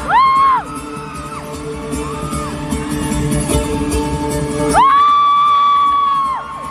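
Live concert music over loud speakers: a voice or lead line holds long notes that swoop up, hold and slide away, over steady backing with a low rumble in the middle.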